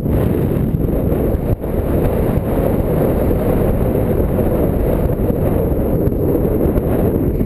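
Strong wind buffeting the microphone: a loud, steady low rumble that drops out briefly about a second and a half in.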